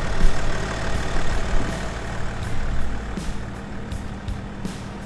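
Off-road 4x4 engines running at low speed on a gravel track, a steady low hum that grows quieter in the second half.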